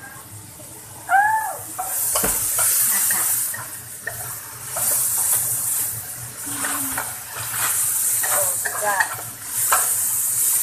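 Garlic and mushrooms frying in a hot pan. The sizzling swells in about two seconds in and comes in waves as the food is stirred, with a spatula scraping and knocking against the pan.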